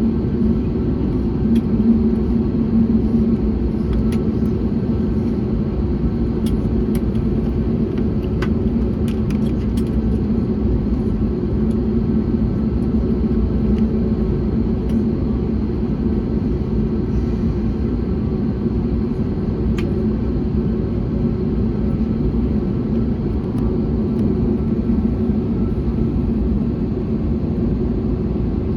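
Steady cabin rumble inside an Airbus A321neo with Pratt & Whitney geared-turbofan engines: engine and airflow noise with a low, even hum and a few faint ticks.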